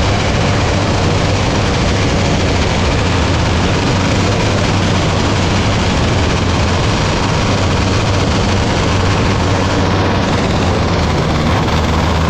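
270 micro sprint car's engine running flat out on a dirt track, heard onboard as a loud, steady, dense engine noise with a strong low hum.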